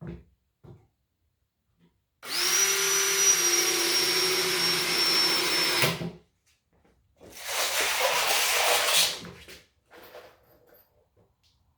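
Cordless drill driver running a long screw through a 3/4-inch plywood deck into the 2x frame below: a steady whine of about four seconds that cuts off suddenly as the screw seats, then a second, shorter run of about two seconds.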